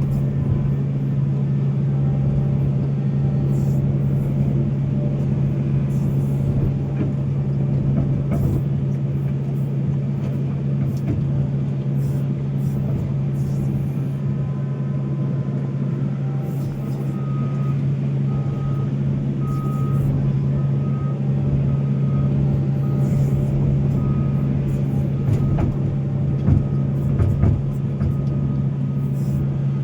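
Volvo excavator's diesel engine running steadily under working load, with scattered knocks. In the second half a reversing alarm beeps about once a second for several seconds.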